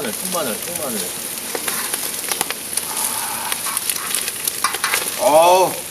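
Food sizzling steadily on a cast-iron cauldron-lid griddle, with scattered light clicks and scrapes from utensils stirring it. A short voiced exclamation rises and falls near the end.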